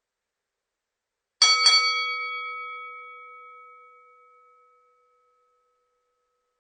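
A small metal bell struck twice in quick succession, about a quarter second apart. It rings with a clear tone that fades away over about three seconds.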